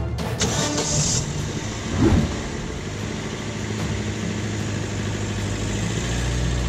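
Car engine running steadily at idle, with a short loud burst of noise about two seconds in.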